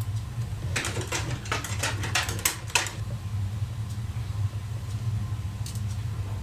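A quick run of about a dozen light, sharp clicks from small tools and parts being handled during a watch movement teardown, then a couple more clicks near the end, over a steady low hum.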